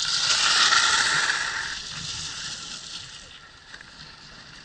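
Skis scraping and sliding over snow: a hiss that swells to a peak about a second in, then fades over the next two seconds.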